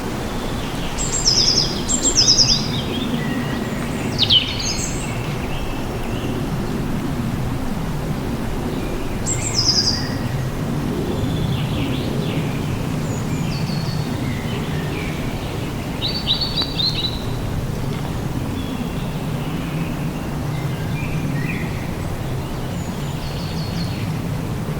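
Wild birds chirping, short high calls and quick trills every few seconds, the loudest about two seconds in, over a steady low background noise.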